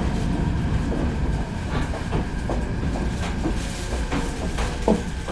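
Meitetsu 4000 series electric train heard from inside, slowing into a station: a steady low rumble of wheels on rail with scattered clicks and clacks. A sharp knock comes about five seconds in, and near the end a tone starts to fall in pitch as the train brakes.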